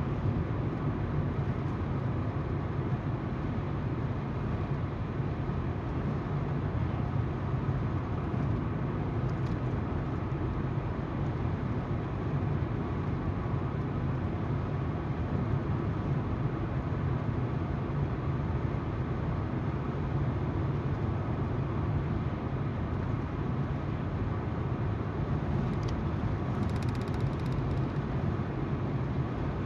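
Steady tyre noise from the road and the low hum of the engine, heard from inside a moving car.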